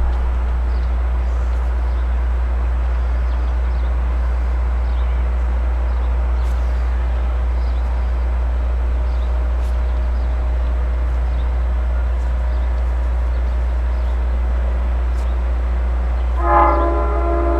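A steady low hum with faint background noise, then near the end a diesel locomotive's multi-note chord horn starts sounding as the LIRR DM30AC-led train approaches the station.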